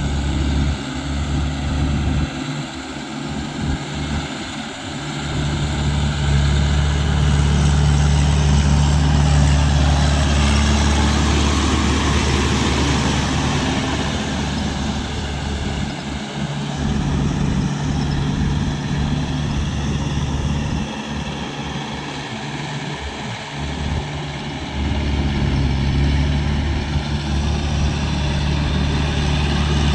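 Tractor engine running steadily, with a deep, even drone.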